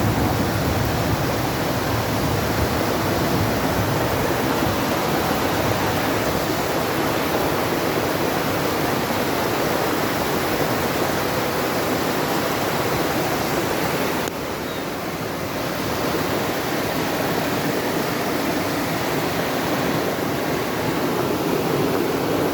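Heavy rain pouring down in a steady, loud hiss, dipping briefly in loudness about fourteen seconds in.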